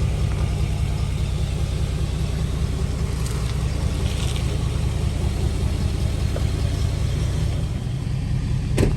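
Steady low rumble of a car driving, heard from inside the cabin, with a single sharp click near the end.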